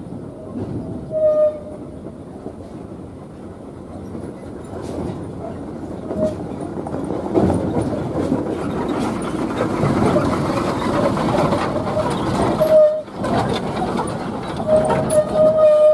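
Heavy diesel truck running hard under load, growing louder through the middle. A horn sounds briefly about a second in and again near 13 seconds, then is held for a longer blast near the end.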